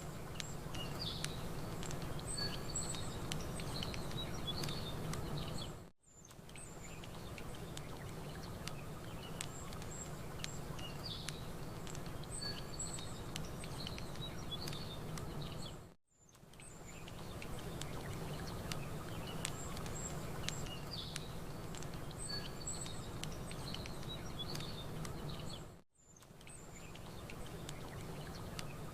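A looped campfire-and-birds ambience: fire crackling in small clicks over a steady low rumble, with small birds chirping high above it. The roughly ten-second mix fades almost to silence and straight back in three times, about 6, 16 and 26 seconds in.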